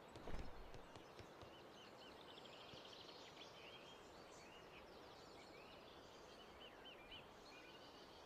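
Faint bird calls: short repeated chirps over a low steady hiss, with a brief low thump about a third of a second in.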